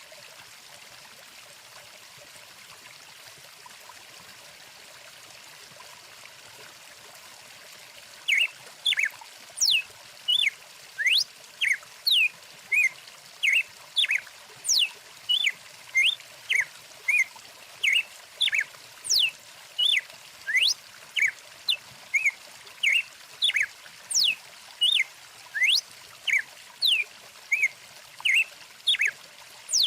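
Stream water running steadily. About eight seconds in, a bird starts a fast series of loud, short chirps and sweeping whistles, about two a second, over the water.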